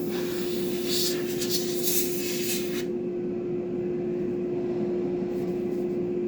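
A small machine hums at one steady pitch, with a hissing, scratchy noise over it that stops about three seconds in while the hum carries on.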